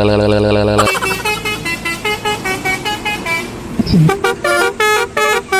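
Basuri telolet musical bus horn holding one long steady note, then breaking about a second in into a quick tune of short notes at changing pitches, about four or five a second. A low thump sounds about four seconds in.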